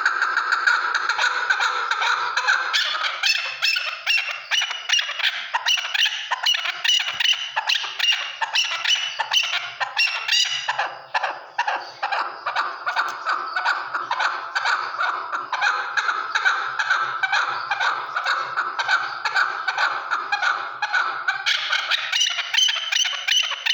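Chukar partridges calling: a continuous chatter of rapid repeated clucks.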